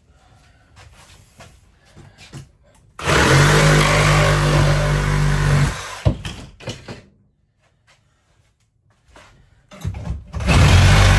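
A power tool cutting through interior wall material, run in two bursts of about three seconds each, its motor holding a steady pitch. Light knocks and scraping fall between the bursts.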